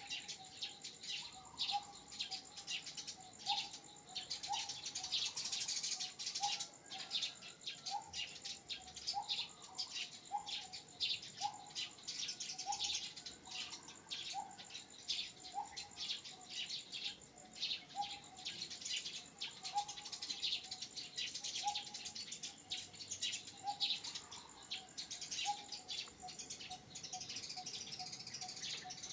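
Many birds chirping continuously. Lower down, a short rising note repeats about once a second, and a thin steady high whine stops a couple of seconds before the end.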